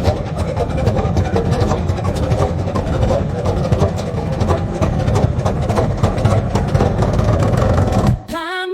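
Diesel train running, a heavy low rumble with rapid clattering. It cuts off abruptly about eight seconds in as a sung melody begins.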